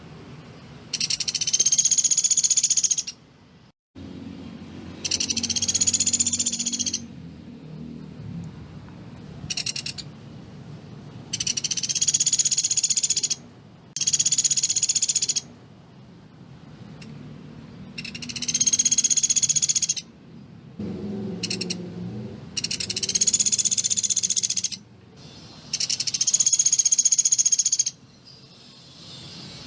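Pelatuk beras woodpecker giving loud, high-pitched rattling call bursts, about nine in all, each lasting up to two seconds, with short pauses between. A faint low rumble lies under some of the gaps.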